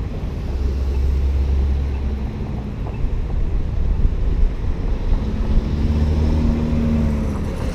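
Wind rumbling on the microphone of a cyclist riding through city streets, with a steady low engine hum from passing traffic about half a second in and again from about five seconds in.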